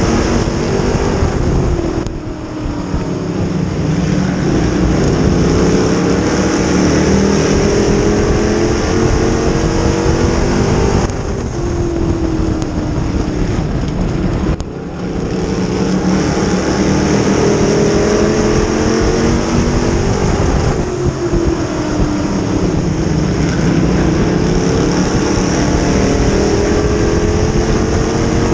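Dirt modified race car engine running hard on track, its revs rising and falling, with sharp dips several times as the throttle is lifted for the turns.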